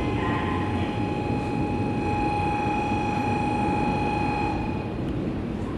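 500 series Shinkansen train pulling slowly into a station: a low rumble with a steady high whine over it, and the whine fades out near the end.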